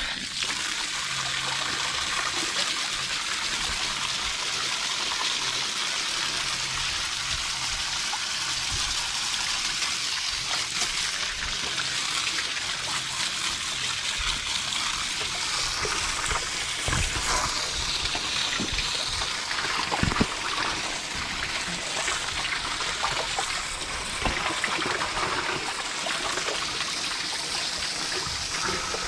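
Water sprayed from a garden hose nozzle onto an AC condenser unit's coil, a steady hiss and splatter, with a few brief knocks midway.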